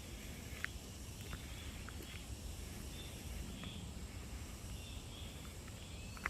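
Outdoor ambience: a steady low rumble with faint, scattered short bird chirps and ticks.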